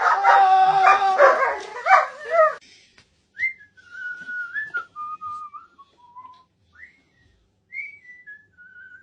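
A dog howls in a loud, wavering, high voice, cut off about two and a half seconds in; then a single pure whistled tune steps downward in short phrases.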